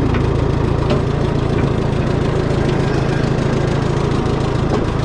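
Minneapolis Moline tractor engine idling steadily.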